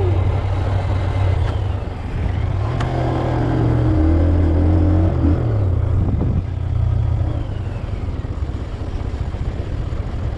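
Motorcycle engine running at road speed, a steady low hum with wind noise over it; the engine note falls about five seconds in.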